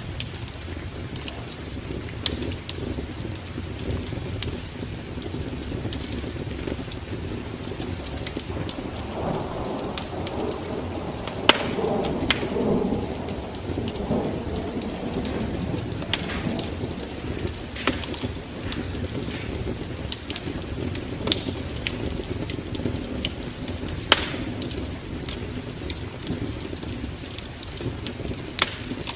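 Steady rain and a low rumble of thunder that swells and fades about a third of the way in, with sharp, irregular crackles from a wood fire in a fireplace throughout.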